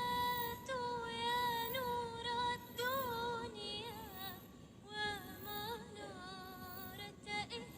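A high voice singing long, held notes with wavering ornaments and pitch bends, with little or no accompaniment.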